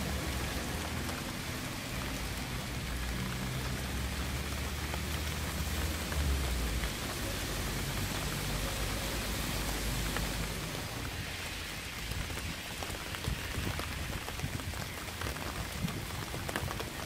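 Steady rain falling, a dense hiss with scattered individual drops ticking. A low rumble underneath fades out about ten seconds in.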